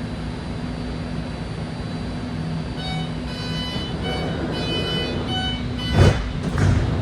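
BART train door-closing warning beeps, a run of short electronic tones over the car's steady hum, followed about six seconds in by two heavy thuds of the sliding doors as they close and bump back. The doors are cycling open and closed again and again while the train is held at the platform.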